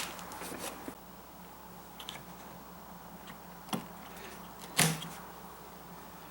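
A few sharp plastic clicks and knocks as a headlight's wiring plug and dust caps are pried off by hand, the loudest about five seconds in.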